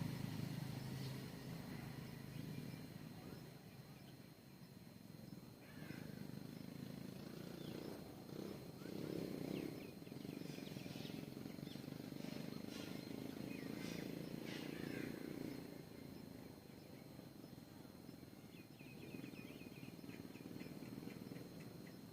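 Faint, scattered chirps of small birds at a feeder, several clusters of short high calls, over a low steady outdoor rumble.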